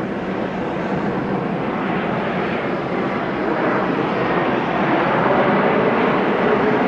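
Jet airliner engines roaring steadily, growing gradually louder.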